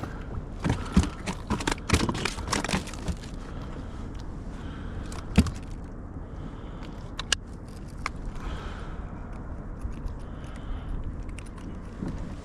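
Clicks, knocks and scrapes of hard gear being handled in a kayak, bunched in the first three seconds, then a few single ticks, over a steady low rumble.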